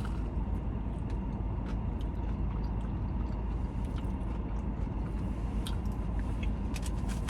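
A person biting into and chewing a freshly fried croqueta, with scattered small clicks of the mouth and crust over a steady low background hum.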